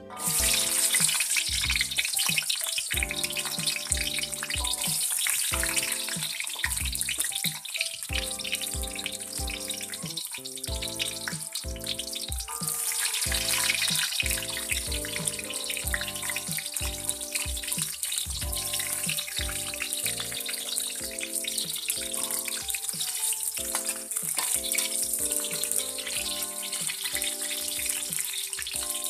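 Food sizzling as it fries in hot oil in a pan, a steady crackling hiss, over background music with a regular beat.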